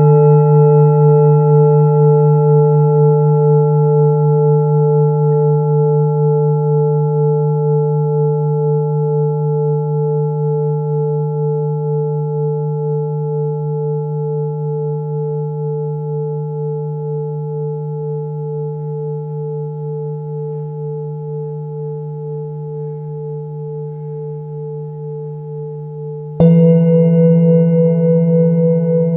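A singing bowl rings after a strike, its tone wavering gently as it slowly fades. Near the end the bowl is struck again and a fresh, louder ring begins.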